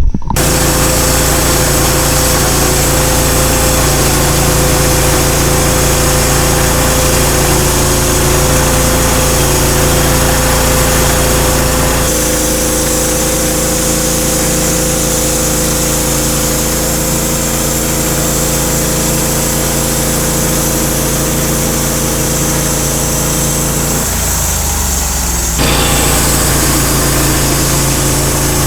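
Engine of a Norwood HD38 portable bandsaw sawmill running steadily, with a slight drop in level about twelve seconds in and a brief change in its lower tones a few seconds before the end.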